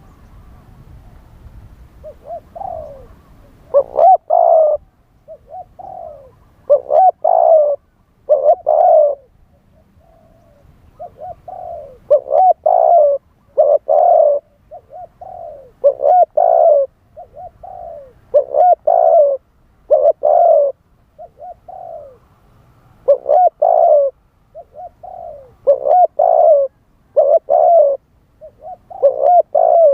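Spotted dove cooing over and over, low rounded notes in short phrases of two to four with brief pauses between, starting about two seconds in.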